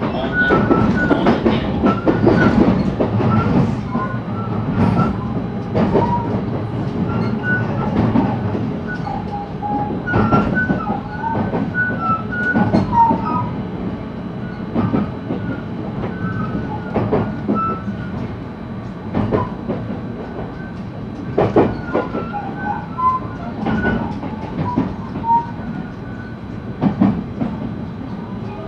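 JR West 223 series electric train heard from inside motor car KuMoHa 223-2079 while running: a steady rumble of wheels on rail, with irregular sharp knocks as the wheels pass over rail joints and many short high squeals.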